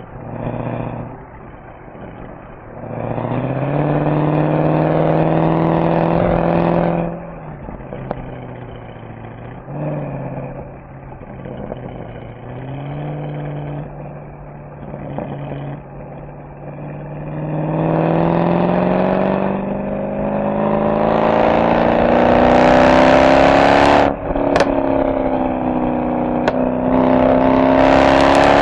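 Mercedes-AMG SL63's V8 engine and exhaust accelerating on the road: a short pull that drops back, a few light throttle blips, then a long climb in pitch near the end, broken by two brief dips with a sharp crack at each upshift.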